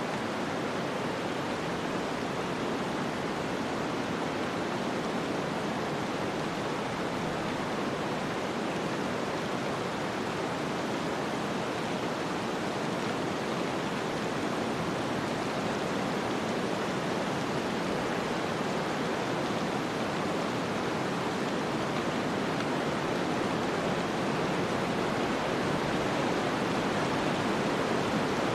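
Steady, even noise of a snowstorm ambience, with no distinct events, swelling slightly near the end.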